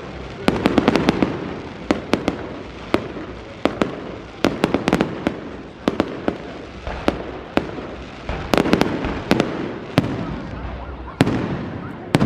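Fireworks display: a rapid, irregular run of sharp bangs and cracks, some in quick clusters, over low rumbling booms and echo.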